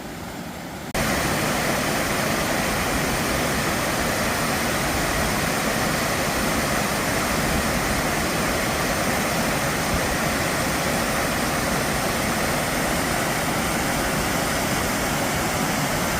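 Waterfall: a steady, even rush of falling water that starts suddenly about a second in.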